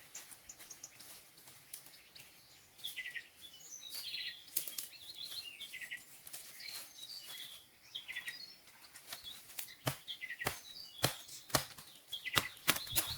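Birds chirping in short repeated call phrases over forest ambience. From about nine seconds in, a run of sharp, irregular clicks or knocks joins them.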